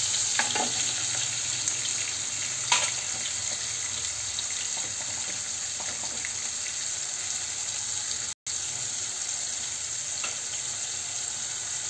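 Chopped tomato and onions frying in hot mustard oil in a kadhai: a steady sizzle with a few scattered pops and crackles. The sound cuts out for a split second about eight seconds in.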